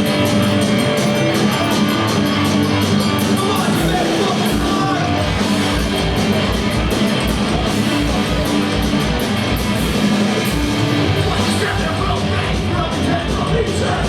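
Live punk rock band playing loud and fast: distorted electric guitars and bass over drums, with a steady, quick kick drum beat coming in a few seconds in.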